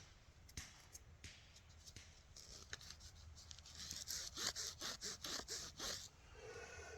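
A dug-up metal button being rubbed back and forth on trouser fabric to wipe off the dirt: a quick series of faint scratchy strokes, a few a second, growing stronger about halfway through.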